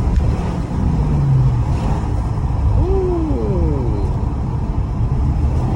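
Infiniti Q50 accelerating under throttle, with engine and road rumble heard through open windows. About three seconds in, the engine note falls in pitch for about a second.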